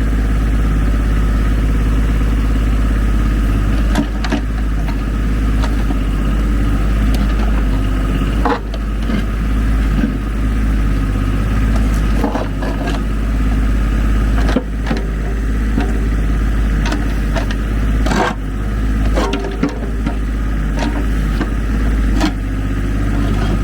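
Ford 1520 tractor's three-cylinder diesel engine running steadily under backhoe digging, with occasional sharp clanks as the bucket works.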